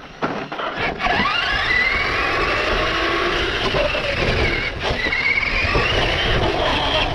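RC car's motor whining as the car drives, rising sharply in pitch as it speeds up about a second in, then rising and falling with the throttle over a rough rumble of wheels on the ground.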